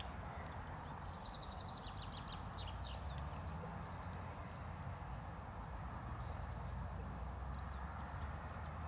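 A small songbird singing a fast trill of about ten short high notes, then a brief two-note call near the end, over a steady low background rumble.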